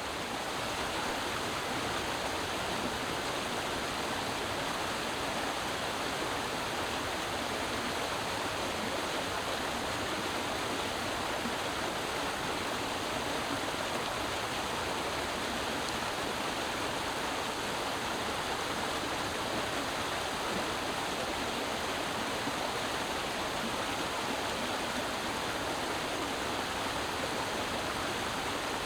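Creek water flowing and babbling in a steady, even rush.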